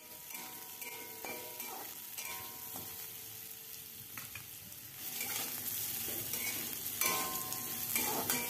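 Diced potato sizzling in hot vegetable oil in a metal kadai while a metal spatula stirs and scrapes it; the frying grows louder about five seconds in.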